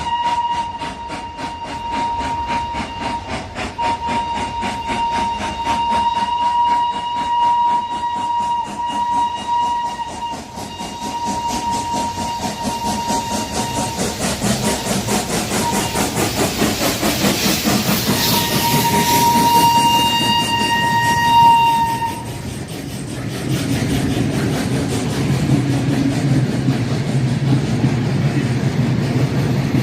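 Steam locomotive whistle held steadily for about ten seconds, then sounded again for a few seconds past the middle, over the regular rhythmic beat of the moving steam train. After the whistle stops, only the train's lower rumble carries on.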